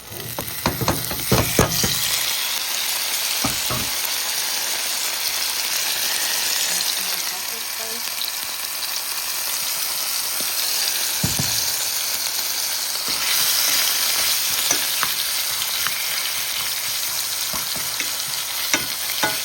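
Cut-up chicken sizzling steadily in a frying pan. A cluster of knocks in the first two seconds and scattered clicks after it come from stirring in the pan.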